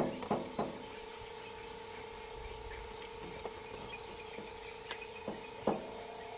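Weaver birds giving short, high, rising chirps, with a few sharper clicks and calls, over a steady low hum.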